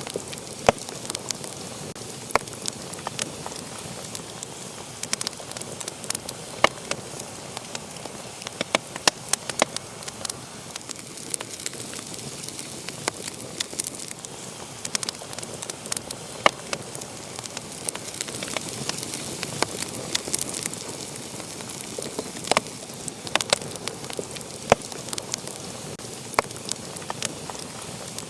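Wood fire burning in a fireplace, a steady hiss with frequent irregular sharp crackles and pops.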